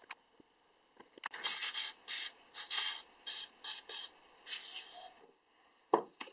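Aerosol spray can with a red extension straw spraying lubricant into the eye of an axe head in about eight short hissing bursts. A single knock near the end.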